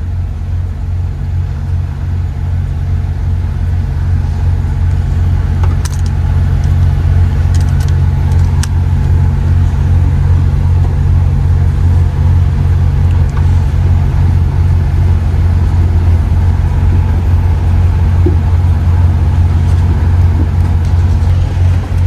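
Semi-truck diesel engine running with a deep, steady rumble, growing louder over the first several seconds and then holding steady. A few faint clicks are heard a few seconds in.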